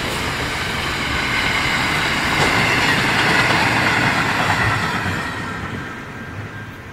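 Container wagons of a long intermodal freight train rolling past, wheels clattering over the rail with a steady high ringing from the wheels. The sound dies away over the last couple of seconds as the end of the train passes and recedes.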